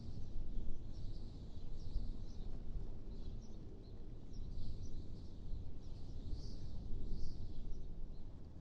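Wind blowing with a low, wavering rumble, while small birds chirp again and again over it.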